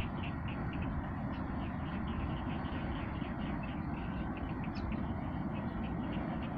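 Steady low rumble with a bird chirping rapidly and repeatedly over it, about three or four chirps a second.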